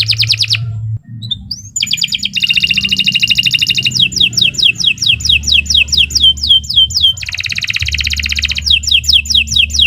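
Domestic canary singing a long continuous song: fast trills alternate with runs of quick falling whistled notes, about four a second, with a short break about a second in. A low steady hum runs underneath.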